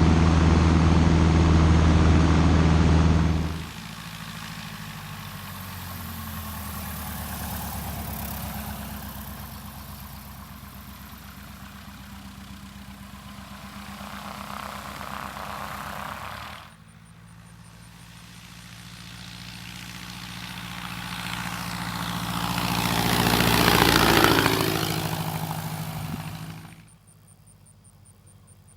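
Light aircraft's 180 hp Titan O-340 four-cylinder engine and propeller running. It is loud for the first few seconds, then steps abruptly down to a quieter, more distant run. Later it swells to a peak and falls away as the plane passes by.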